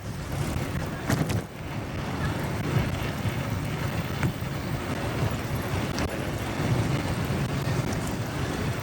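Motorcycle running at low, steady engine speed in city traffic, with a few short ticks about 1, 4 and 6 seconds in.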